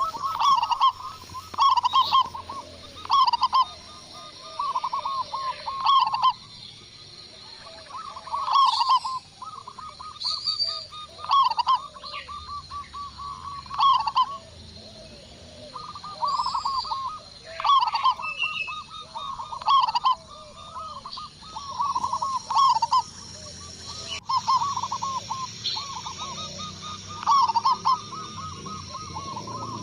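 Zebra doves (perkutut) calling: runs of quick staccato coos, a phrase every second or two, with fainter high chirps from small birds between them.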